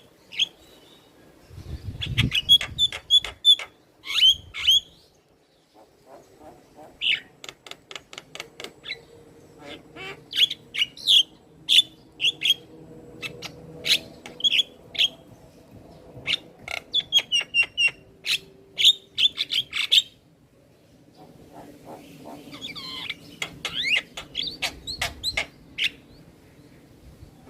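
Javan myna singing: rapid runs of short, sharp clicking and chattering notes, broken by brief pauses.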